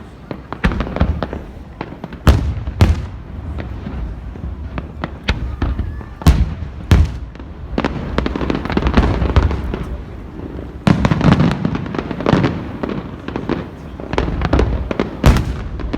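Fireworks going off in a rapid, irregular run of bangs and crackles, with several louder booms about two and a half, three, six and a half, seven and fifteen and a half seconds in.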